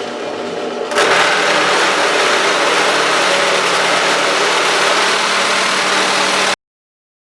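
Electric drill boring a large hole, its motor running steadily. About a second in it bites harder and gets louder, with a dense cutting hiss over the motor hum, then the sound stops abruptly near the end.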